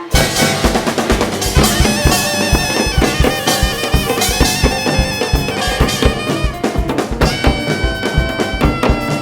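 A Korean traditional music ensemble playing a fast, loud piece: dense rhythmic drumming with a held, high wind melody over it.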